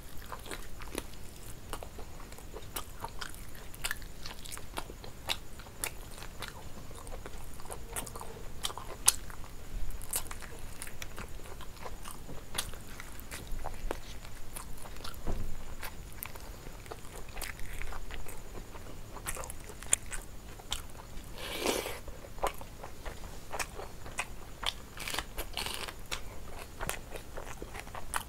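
Close-up eating sounds: a person biting and chewing fried chicken off the bone, with frequent small crunches and wet mouth clicks. A louder, longer burst of noise comes about three quarters of the way through.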